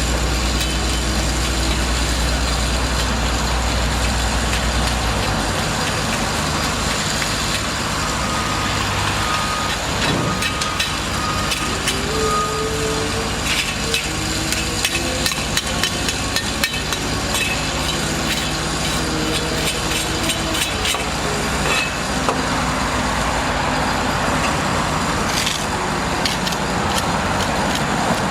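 Heavy engine noise and road traffic mixed with scattered metallic knocks and clanks of construction work; a deep engine drone drops away about five seconds in.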